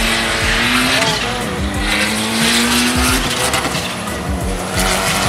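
Car engine revving up in rising sweeps, with tyres squealing.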